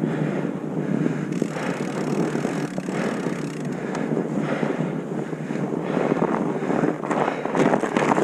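Wind rushing over the microphone while riding a mountain bike on a dirt trail, with tyre noise and scattered short rattles and knocks from the bike.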